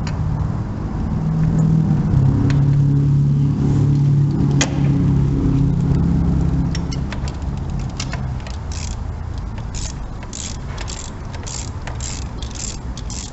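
A vehicle engine hums nearby, swelling and then fading through the first half. In the second half a ratchet wrench clicks in short strokes, about two a second, running a new spark plug down into its hole.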